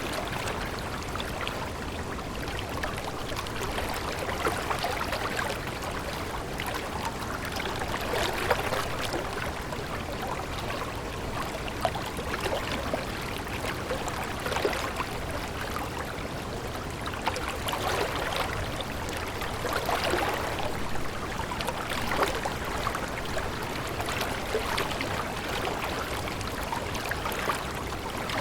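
Water running steadily, with many small splashes and trickles, like a stream flowing over stones.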